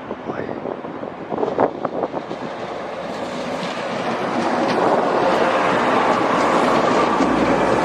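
A train running past on the track, its wheels clicking over rail joints. It grows louder from about three seconds in and holds loud and steady.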